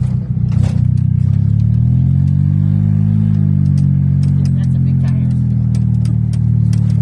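Golf cart's motor running under way, its pitch climbing smoothly to a peak about three seconds in and easing back down, with scattered short clicks and knocks from the ride.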